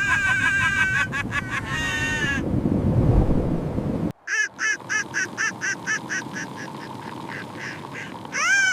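Cartoon animal voices making quack-like calls. A drawn-out wavering call runs over a low sliding rumble that swells and then cuts off suddenly about four seconds in. A quick run of short repeated calls follows, about three a second.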